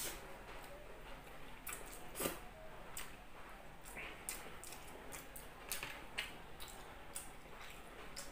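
Close-miked eating: a person chewing a mouthful of rice, with scattered soft wet mouth clicks and a sharper click a little over two seconds in.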